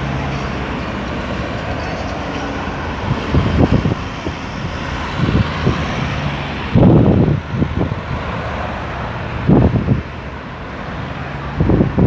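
Road traffic passing around a roundabout, a steady rush of tyres and engines that thins out about seven seconds in. Several gusts of wind buffet the microphone from about three seconds in.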